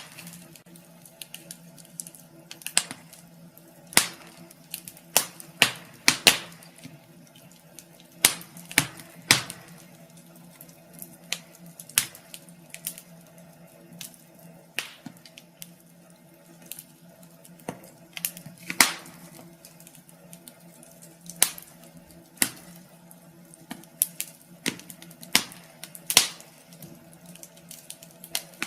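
Wood fire in a fireplace crackling, with irregular sharp pops scattered through, some louder snaps standing out, over a faint steady low hum.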